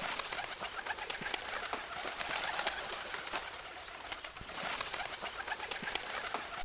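Pigeons: a steady rustling hiss dotted with many small clicks and taps, as from a flock, with faint cooing.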